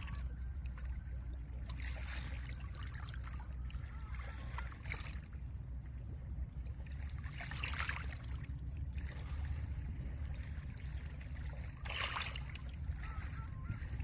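Small lake waves washing in over a pebble beach, four surges of hissing, rattling water, the strongest about 8 and 12 seconds in, over a steady low rumble.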